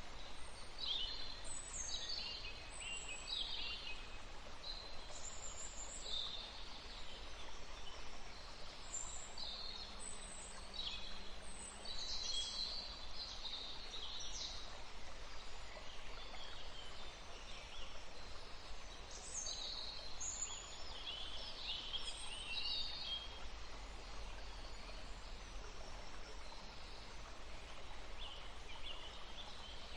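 Several small songbirds chirping and trilling in bursts of short, high calls, with quieter gaps between bursts, over a faint steady background hum.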